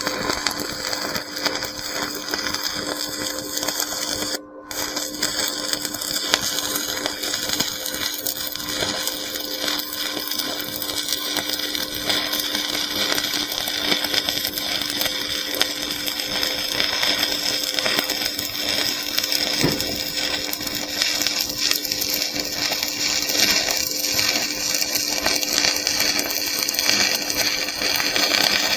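Stick-welding arc crackling steadily as an E6013 electrode burns, with a constant hum underneath; the crackle briefly drops out about four seconds in.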